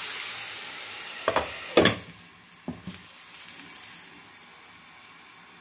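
Diced carrots sizzling in oil in a frying pan. About a second and a half in, a glass lid knocks twice as it is set on the pan, and the sizzling turns much quieter and muffled.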